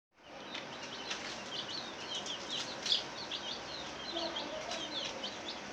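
A flock of chickens in a poultry house calling, a constant overlapping chorus of short high chirps, several a second, with a few lower calls mixed in.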